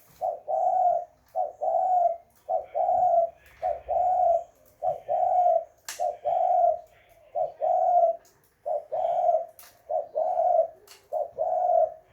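Spotted dove (terkukur) cooing over and over in a steady rhythm, each phrase a short note followed at once by a longer one, about ten phrases in all.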